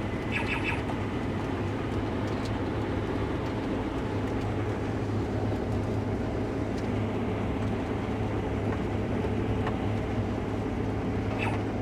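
Case IH Axial-Flow combine running steadily while harvesting wheat, a constant low engine hum. A short high chirp sounds just after the start and again near the end.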